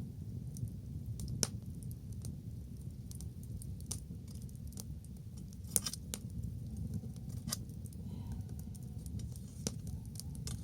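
Wood bonfire crackling: scattered sharp pops at irregular moments, the loudest a double pop about six seconds in, over a steady low rumble.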